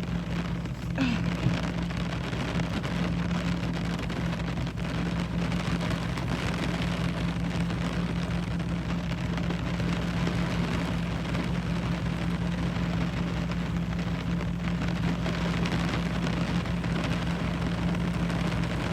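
Steady rain pattering, with the Dodge Durango's engine idling as a low, even hum underneath. There is a brief knock about a second in.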